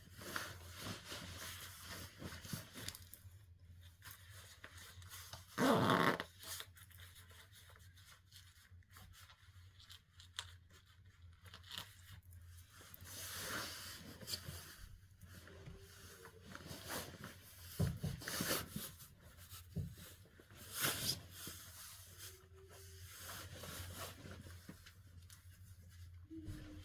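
Clothing being handled: intermittent rustling and scraping of fabric, with a louder brief scrape about six seconds in.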